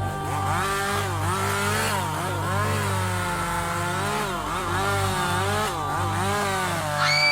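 Chainsaw engine revving up and down over and over, its pitch rising and falling with each squeeze of the throttle. A high, steady tone starts near the end.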